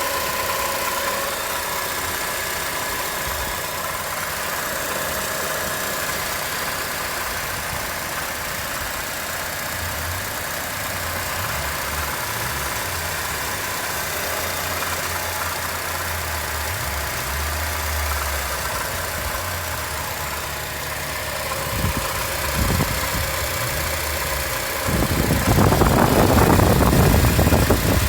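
2007 Acura TSX's 2.4-litre four-cylinder engine idling with a rattle. It gets louder and rougher for the last few seconds.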